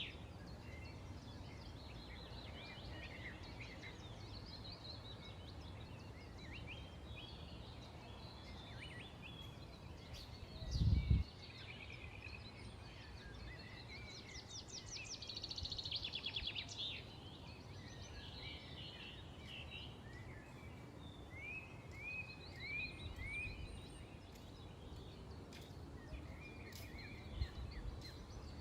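Several small birds chirping and twittering, with quick trills now and then, over a steady low outdoor hiss. A brief low rumble about a third of the way in is the loudest sound, and a smaller one comes near the end.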